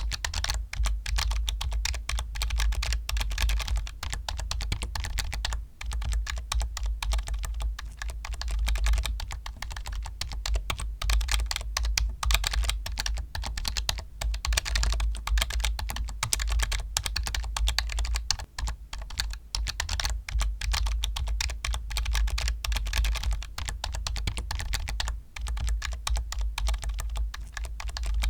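Continuous fast typing on a computer keyboard, a dense run of key clicks with only brief pauses, over a steady low hum.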